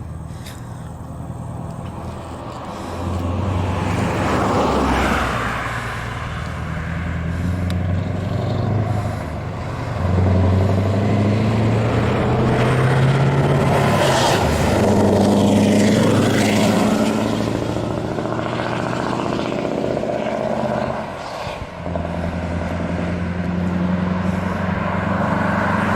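Scania R520 V8 truck engine with an open exhaust pipe, running under load. Its note climbs and drops several times and falls off briefly about 21 seconds in before pulling again.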